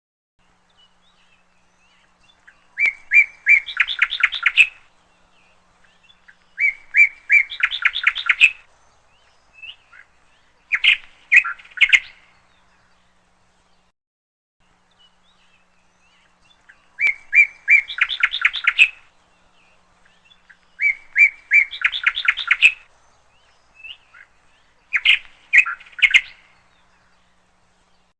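A bird chirping in quick trilled phrases of rapid high notes, each about two seconds long, with short quiet gaps. A set of three phrases is given, then after a pause the same three phrases come again.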